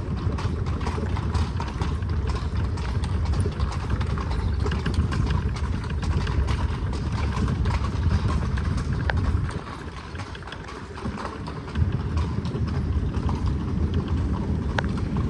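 Horse's hooves clip-clopping at a walk as it pulls a carriage, over a steady low rumble of the rolling carriage. The low rumble drops away for about two seconds after the middle and then returns suddenly.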